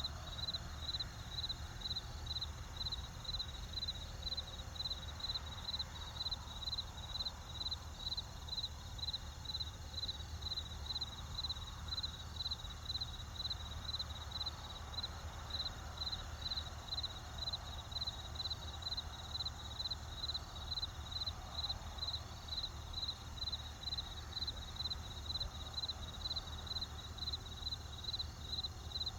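Crickets chirping in a steady, even rhythm of about two high chirps a second, over a faint steady low rumble.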